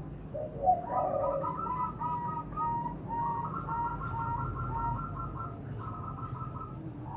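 Zebra dove (perkutut) calling: a brief lower warbled coo, then a long run of short, clipped cooing notes, about three to four a second, over a faint low hum.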